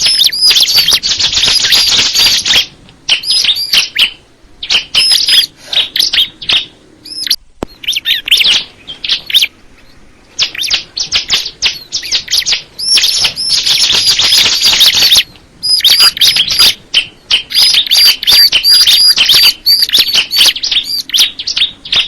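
Ciblek kristal (a bar-winged prinia of the kind kept as a songbird) singing: fast runs of high, sharp repeated notes in bursts of a few seconds, broken by short pauses.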